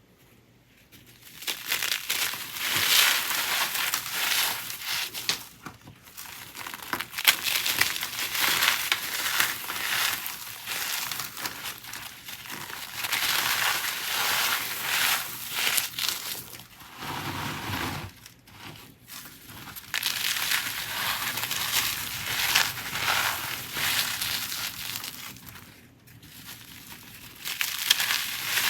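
Dried, re-formed blocks of pink-dyed cornstarch being crushed: dense crunching and crackling in long runs of squeezes, with a few short pauses.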